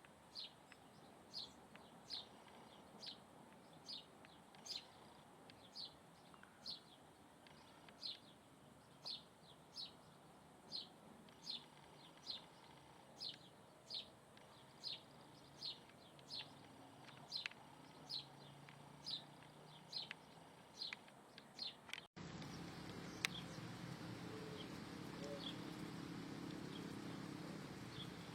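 A single bird repeating a short, high, downward chirp at an even pace, nearly twice a second. About 22 seconds in, the sound cuts abruptly to a louder low, steady hum with only a few faint chirps.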